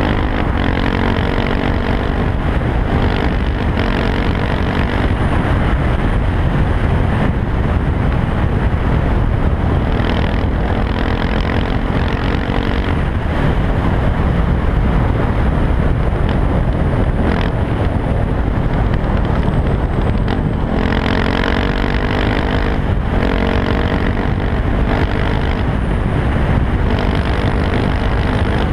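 KTM 690 SMC R's single-cylinder engine running through an Arrow exhaust with the dB killer removed, accelerating under way. The pitch climbs and drops back repeatedly as the rider shifts through the gears, with quick upshifts about a second apart near the end.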